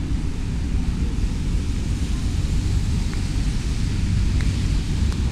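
Bus station ambience: a steady low rumble of idling diesel bus engines, with a light hiss over it.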